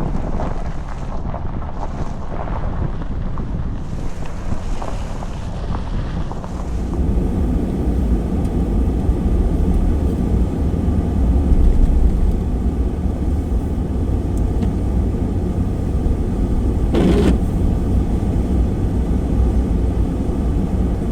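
Gusty wind on the microphone for the first several seconds, then a vehicle's steady low running rumble with road noise, and a short swish about 17 seconds in.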